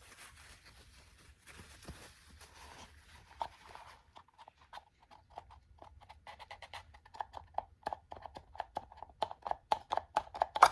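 A quick run of sharp plastic knocks and clicks, about three to four a second and growing louder, with a loud snap at the end: the stuck old oil filter element being worked loose from the filter housing cap.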